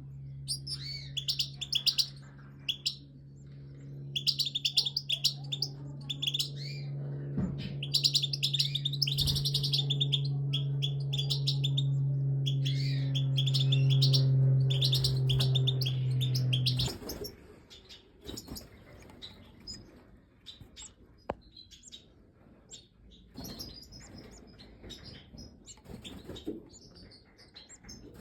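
Major goldfinches chirping in rapid, dense bursts, thinning out later. Underneath runs a steady low hum that cuts off suddenly about 17 seconds in.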